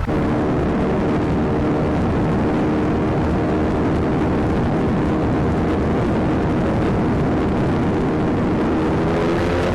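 Motorcycle engine running at steady speed under rushing wind noise, its pitch rising slightly near the end as the bike speeds up.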